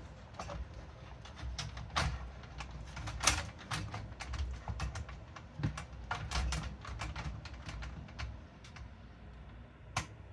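Irregular small clicks and taps of metal parts being handled in a computer case, with a sharper knock about three seconds in and another near the end.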